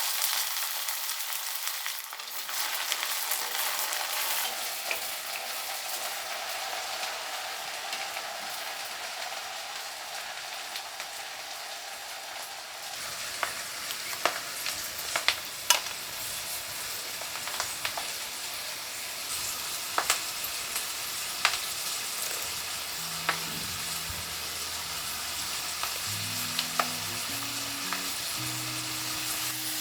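Food sizzling as it fries in hot oil in a pan. From about halfway, a utensil clicks and scrapes against the pan as it is stirred. Soft background music comes in faintly near the end.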